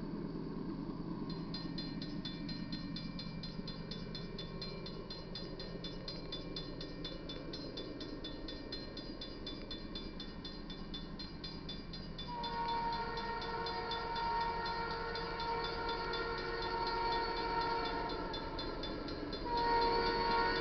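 Canadian Pacific freight train led by a GE AC44CW diesel locomotive: a low engine rumble, with a bell ringing rapidly and evenly from about a second in. About twelve seconds in, the locomotive's multi-note air horn starts sounding a long blast, eases off briefly and comes back louder near the end.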